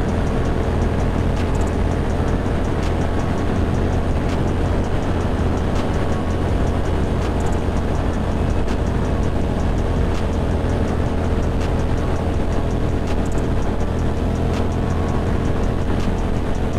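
Ducati Monster 620's air-cooled V-twin running steadily at cruising speed, with a steady rush of wind and road noise.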